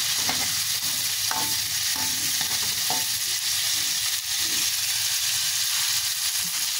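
Shrimp sizzling steadily in hot oil in a wok, stirred with a metal spatula that gives a few short scrapes against the pan.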